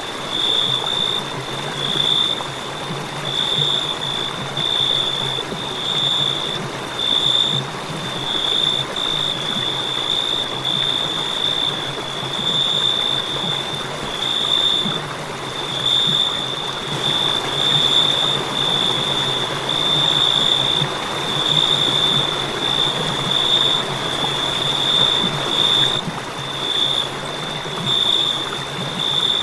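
Crickets chirping in a steady run of high-pitched pulses, roughly one a second, over a constant rushing background hiss.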